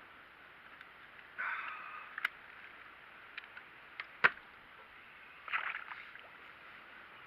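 Water splashing against a kayak twice, with several sharp clicks and one louder knock in between, over a steady hiss of wind and sea.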